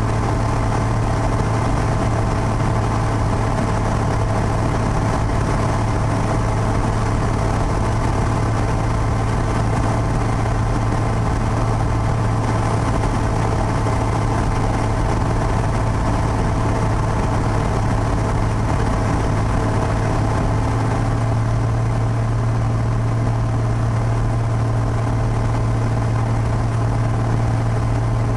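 Piper PA-32's six-cylinder Lycoming piston engine and propeller running steadily, with an even low hum.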